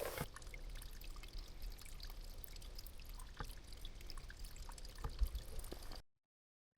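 Water trickling, with faint scattered clicks, cutting off abruptly to silence about six seconds in.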